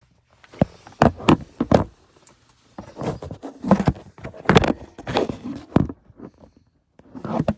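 A run of knocks, clicks and rustles inside a car, with short gaps between them, like things being handled and moved about in the cabin.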